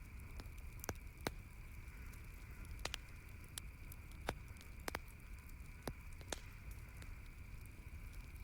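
Campfire crackling, with sharp wood pops at irregular moments, about eight of them, over a steady background hiss.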